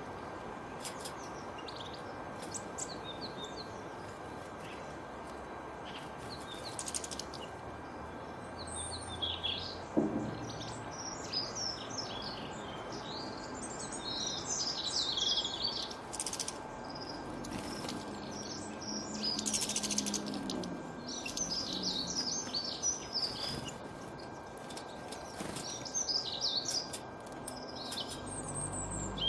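Small songbirds chirping and trilling in quick high phrases over a steady background hiss, busier after about ten seconds. A single sharp knock sounds about ten seconds in.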